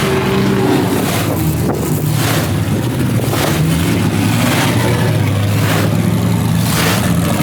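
Car engine idling steadily, its low note drifting slightly up and down, with short rushes of noise about once a second.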